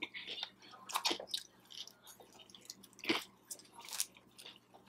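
A person chewing a crisp fried egg roll: irregular crunching with a few sharper crunches.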